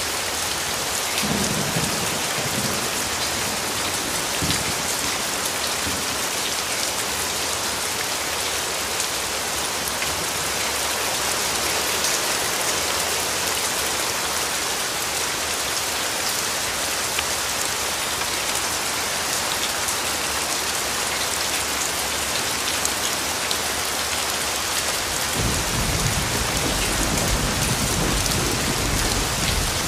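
Steady heavy rain falling on a hard surface, with low rumbles of thunder about a second in and again from near the end.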